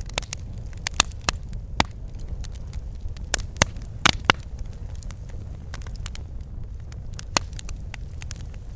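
Wood fire in a fireplace crackling over a steady low rumble of burning, with irregular sharp pops, a cluster of louder ones in the first half.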